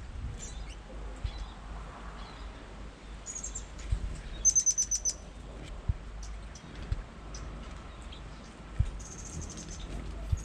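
Small songbirds giving high, thin calls in quick runs of notes: a short run about three seconds in, the loudest run about four and a half seconds in, and another near the end. A few short, low knocks come between the runs.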